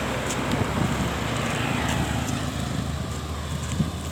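Truck engine running steadily with road noise while driving, with a single knock near the end.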